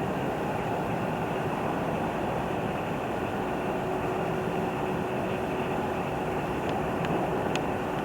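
Train running through the station: a steady rumbling noise with a faint steady hum, and a few light clicks near the end.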